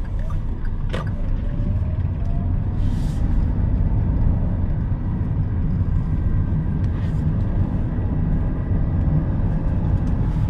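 In-cabin sound of a Daihatsu Rocky's 1.2-litre three-cylinder engine running under light throttle at low road speed, with steady road rumble. There is a single short click about a second in.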